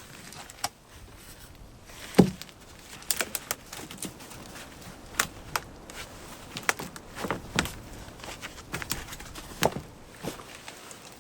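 Irregular short knocks and clicks, with one heavier low thump about two seconds in.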